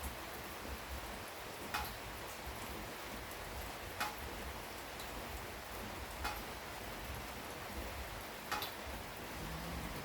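Steady rain falling, with a single sharp drip-like tick about every two seconds.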